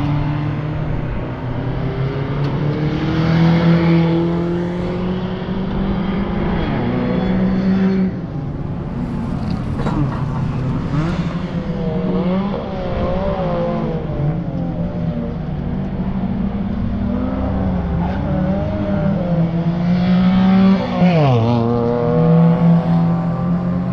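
Mazda MX-5's four-cylinder engine being driven hard on a race circuit, its pitch climbing under acceleration and dropping at gear changes and braking, with a sharp drop and climb near the end. Tyres squeal briefly midway and again at the very end.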